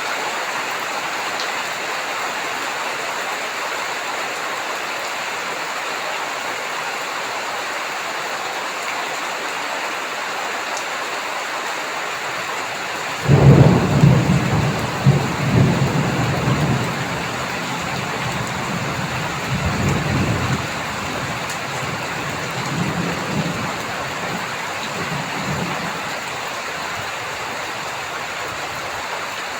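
Heavy rain falling steadily, with thunder breaking suddenly about halfway through and rolling on in rumbles for several seconds, followed by a few quieter, fading rumbles.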